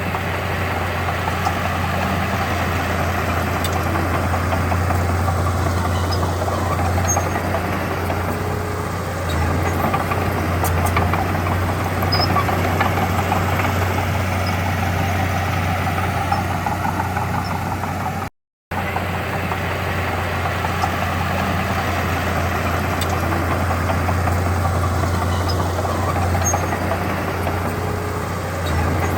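Heavy diesel engine of earthmoving equipment running steadily with a deep, constant low hum, broken by a split-second silence a little past halfway.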